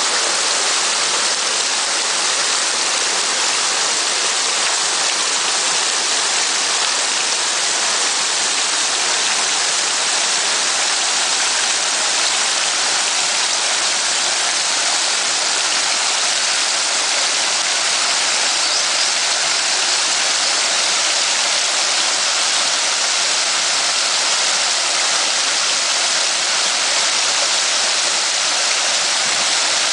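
Waterfall on a small river, water falling and splashing in a steady, even rush.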